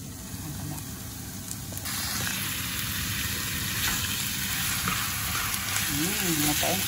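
Raw chicken breast strips frying with onion and garlic in a pan, sizzling as they are stirred with a spatula. The sizzle gets louder about two seconds in.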